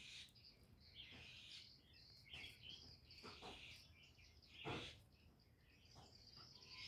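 Near silence, with faint small birds chirping and a few soft clicks.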